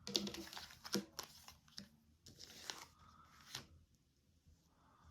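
Tarot cards being handled: a quick run of crisp clicks and papery rustles of card stock, dying away about three and a half seconds in.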